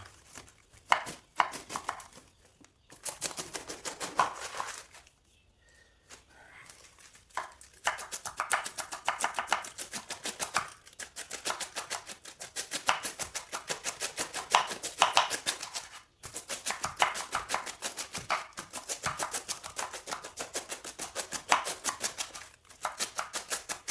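Cabbage being chopped with a knife: a few separate cuts, a short pause, then long runs of rapid, even chopping strokes.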